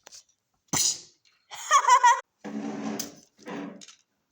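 A voice making a string of short wordless noises: a breathy burst, then a high wavering squeal, then two lower buzzy sounds.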